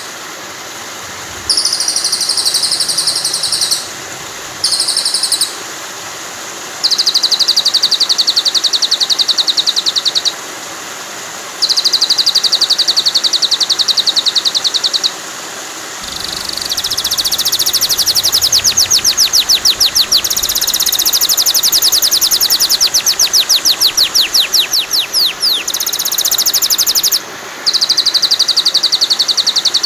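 Recorded songbird trills in bursts of one to several seconds: very rapid, even, high-pitched chirps repeated in quick succession, with faster falling notes in the middle stretch, over a steady rush of flowing water. It is a bird-song tutor track for training white-rumped shamas.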